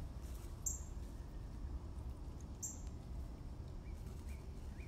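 Small birds calling: two brief, very high chirps, then from about four seconds in a run of short rising notes, about two a second, over a low, steady rumble.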